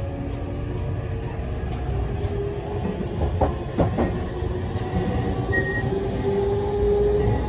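Interior running sound of a Tokyu 7000 series commuter train (later-build set 7112F) with its Toshiba IGBT VVVF inverter. Wheel and track rumble runs under a faint motor hum that climbs slightly in pitch in the second half, and two quick rail-joint clacks come about halfway through.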